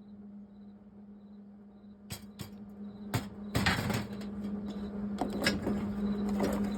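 A few sharp knocks and clicks and a short burst of noise about three and a half seconds in, over a steady low hum.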